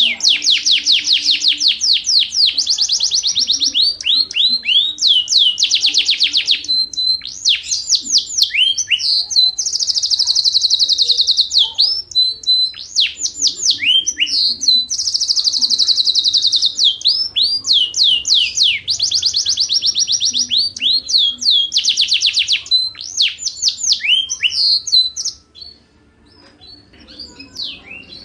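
Yorkshire canary singing a long, continuous song of fast rolling trills and swooping notes. It breaks off about 25 seconds in, then starts again more softly near the end.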